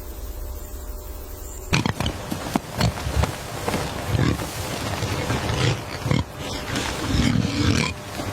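A large animal calling in a run of short, loud, irregular bursts, starting a little under two seconds in over a steady low background hum.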